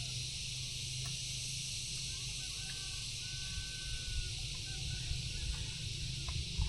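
Outdoor ambience with a steady high hiss and a low rumble, and a few short, faint pitched calls about halfway through, like a bird or fowl heard at a distance.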